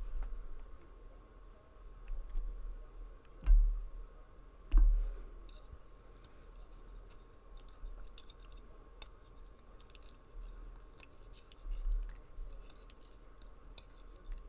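Close-miked eating of noodles: chewing with many small wet mouth clicks, and two louder knocks about three and a half and five seconds in.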